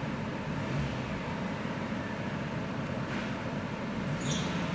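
2016 Hyundai Accent engine running under heavy accessory load (AC at full, alternator loaded) with a faint high chirp from the accessory drive belt, a short one near the end. The chirp is the sign of a slightly loose belt slipping on its pulleys.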